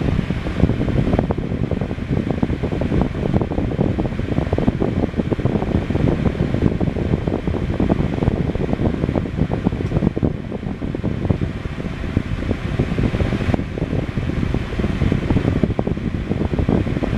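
Holmes Blizzard HANF76BLZ desk fan running steadily on its high speed setting.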